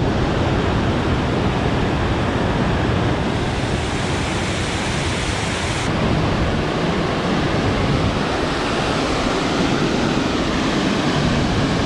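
Waterfall on a mountain stream: a steady rush of falling water.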